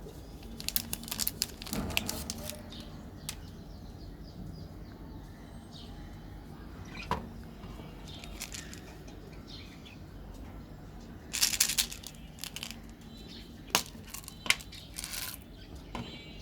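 Close-miked eating sounds: bursts of crackly chewing and clicking, loudest about eleven seconds in, with a few single sharp clicks after.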